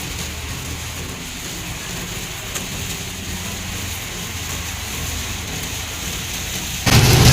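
Heavy rain falling on a moving car, over steady road noise. Just before the end the sound turns suddenly much louder.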